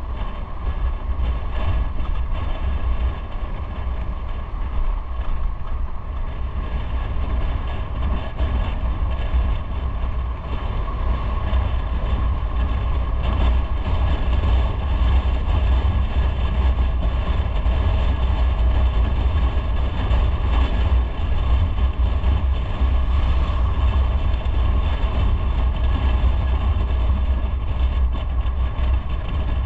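Motorcycle running steadily at road speed, its engine note mixed with a heavy, steady rumble of wind on the microphone.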